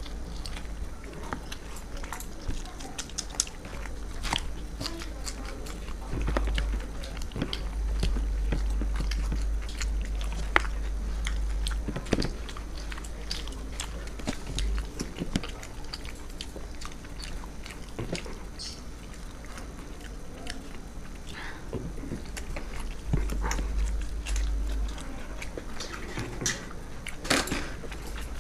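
Two people chewing and biting close to a microphone while eating luchi (fried puffed bread) with aloor dum (potato curry) by hand: many short, irregular mouth clicks and smacks, over a steady low hum.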